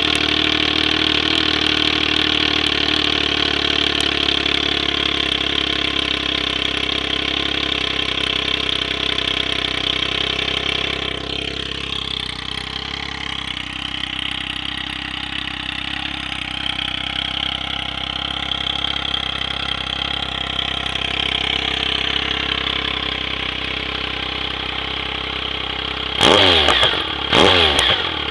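Triumph Speed Triple's three-cylinder engine idling steadily through a customized R6 GP1 exhaust just after starting, then revved twice quickly near the end.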